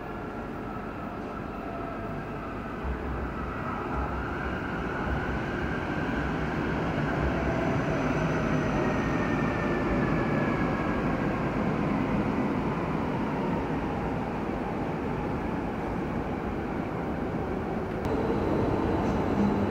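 Stadler FLIRT electric multiple unit rolling slowly over the station points. Its rumble grows louder as it comes, with faint whining tones that slide in pitch, and it gets louder again near the end.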